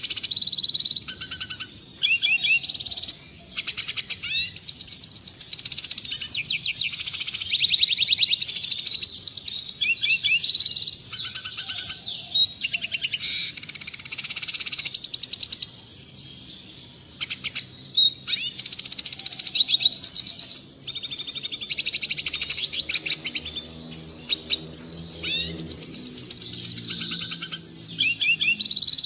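Red siskin singing a long, fast twittering song of rapid high trills and chirps, broken by brief pauses twice in the middle.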